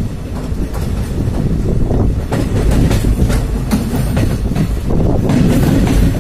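Indian Railway passenger train running at speed, heard from an open coach doorway: a steady heavy rumble of wheels on the rails with irregular sharp clacks over the rail joints.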